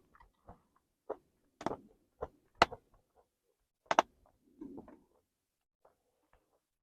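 Tableware being handled during a meal: a series of sharp, separate clicks and taps, with soft rustling in between.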